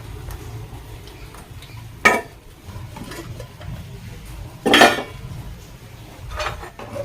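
Kitchen dishes and utensils being handled, with a sharp clink about two seconds in, a louder clatter near five seconds and a softer knock near the end, over a low steady hum.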